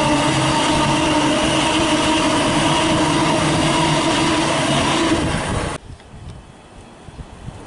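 Thameslink Class 700 electric train running past close by, a loud steady rumble with a steady hum of several pitched tones. The sound cuts off abruptly about six seconds in, leaving a much quieter outdoor background.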